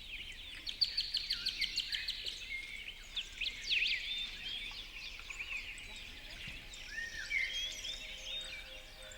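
Several songbirds singing and calling at once: overlapping high chirps, quick trills and short sweeping notes, one over another.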